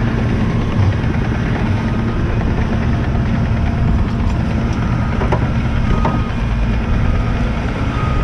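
Heavy truck's diesel engine running steadily at a low, even pitch.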